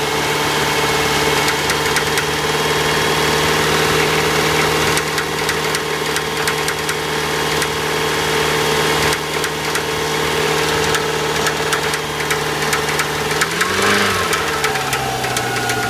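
1997 Subaru Outback's 2.5-litre flat-four idling cold, with a sharp, piercing, repeated whacking knock over the engine note that worries the owner. Near the end the engine is revved briefly, its pitch rising and falling back.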